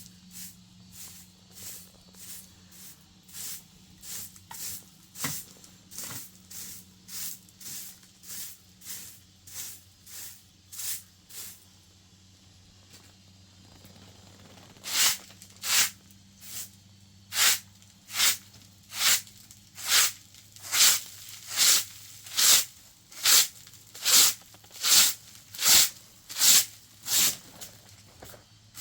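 Rhythmic scraping strokes at a little over one a second, faint at first, pausing briefly about halfway, then much louder and regular, over a faint low steady hum.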